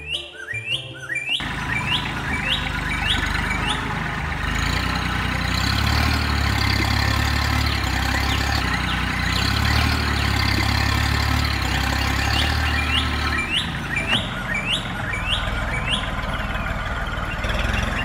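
Small birds chirping in short, quickly repeated calls, about two a second, over a steady low engine-like drone that fades out about two-thirds of the way through.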